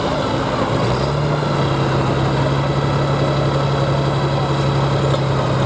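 Hot farm pulling tractor's engine running after a pull, its speed dropping and settling to a steady idle about a second in.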